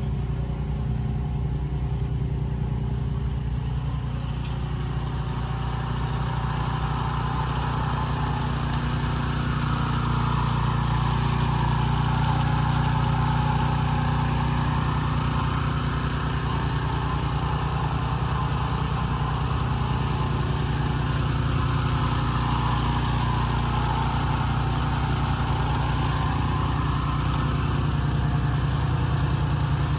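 Benchmark 30-inch tracked snowblower's 420cc single-cylinder engine running steadily, with a rushing noise that swells and fades twice.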